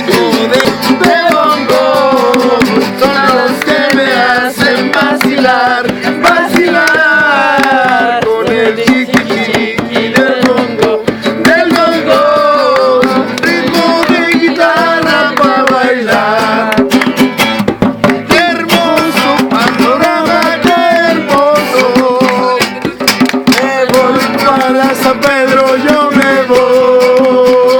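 Acoustic guitar and bongos playing a quick Latin rhythm, with a wavering melody line running over them.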